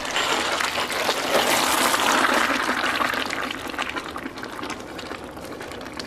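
Molten scrap metal pouring out and spreading over a bed of sand: a crackling, rushing hiss. It swells about a second in, then slowly fades.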